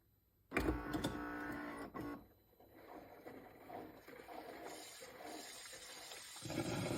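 Philips 5400 bean-to-cup coffee machine running. A pitched motor hum starts suddenly about half a second in and lasts about a second and a half. An uneven, noisy rush follows, growing louder near the end.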